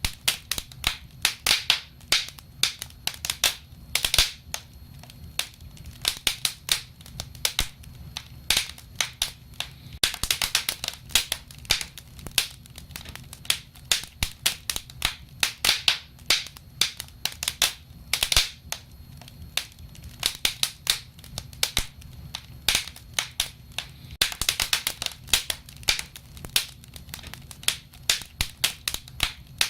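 Wood fire crackling and popping: many sharp irregular snaps over a soft low rumble of flames, with thicker bursts of crackle about ten seconds in and again near the end.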